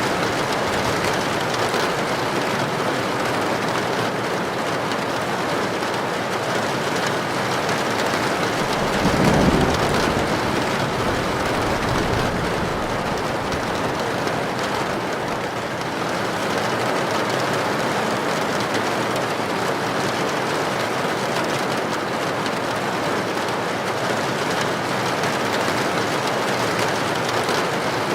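Heavy rain falling steadily on a tin roof, with a low rumble of thunder swelling briefly about nine seconds in.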